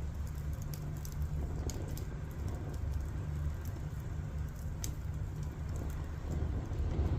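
Wood fire burning, with a steady low rumble and scattered sharp crackles and pops from the burning logs.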